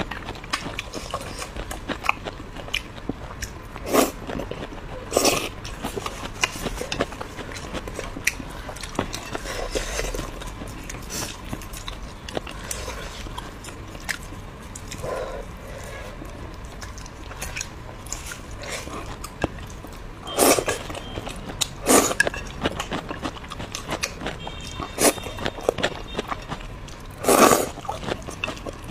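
Close-miked eating sounds: a woman chewing mouthfuls of rice and braised pork in chilli sauce, with many small wet mouth clicks. Several louder bites or slurps stand out, a few near the middle and end.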